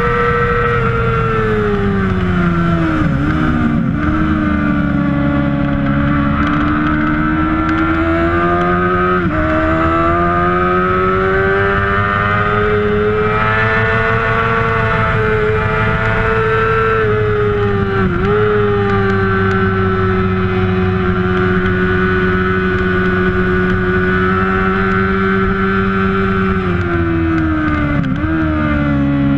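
A 600cc supersport motorcycle engine runs hard at high revs, its pitch slowly falling and rising. It dips sharply for an instant at each gear change, about four times.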